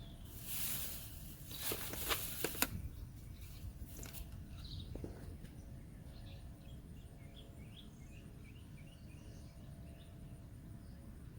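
Rustling and a few sharp clicks in the first few seconds, like hands handling wiring or parts, then a series of faint bird chirps over a low background hum.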